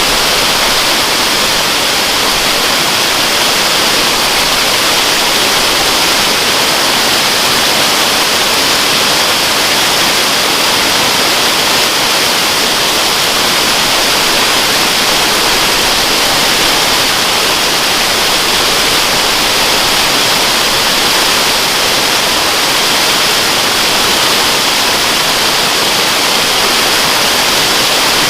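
Waterfall rushing in a steady, loud, unbroken roar of falling water, with the most energy in the hissing upper range.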